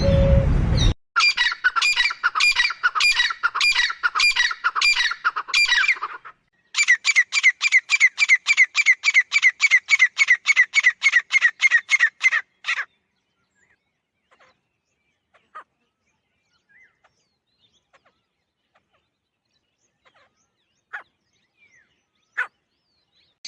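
Bird calls. A fast run of sharp repeated squawks, then a quicker run of short falling notes, about four a second, which stops about halfway through. After it come a few scattered faint chirps.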